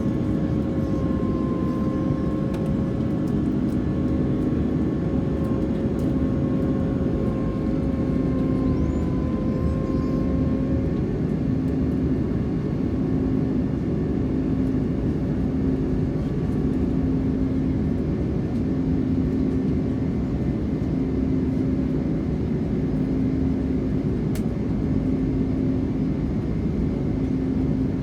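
Steady engine and airflow noise inside the cabin of an Airbus A330-300 airliner. A low hum swells and fades every couple of seconds, and a higher steady tone fades out about ten seconds in.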